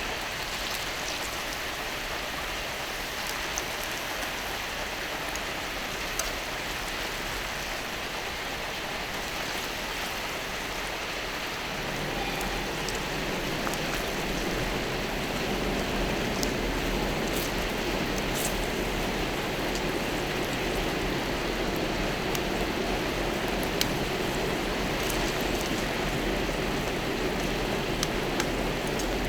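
Meat sizzling on a hot iron griddle plate: a steady hiss dotted with small pops and crackles, growing fuller about twelve seconds in.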